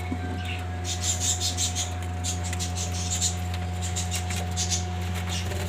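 Budgerigars chirping in short groups of rapid, high-pitched chatter, over a steady low hum.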